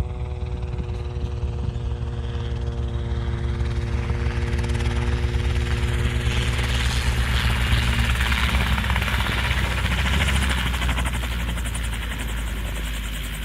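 Robinson R-22 helicopter's four-cylinder piston engine and rotor during a practice full-down autorotation. A steady hum of several tones fades out over the first half as a rushing rotor and air noise swells, peaks about eight to ten seconds in, then eases.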